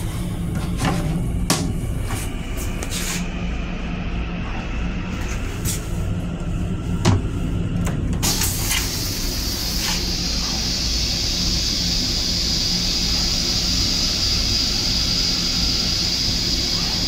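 Steady low hum and rumble of an M7 electric railcar, heard inside its restroom, with scattered clicks and knocks in the first half and one sharper knock about seven seconds in. A little after eight seconds a steady hiss starts and keeps on.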